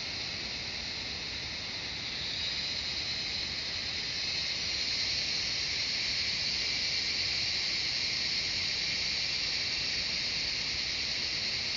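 A chorus of cicadas singing in forest: a steady, dense high buzz that swells louder about two seconds in and again a couple of seconds later, then holds.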